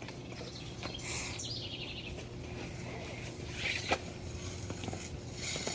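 Birds chirping in short bursts of high calls, about a second in, near the middle and again near the end, over a steady low hum, with one sharp click near the middle.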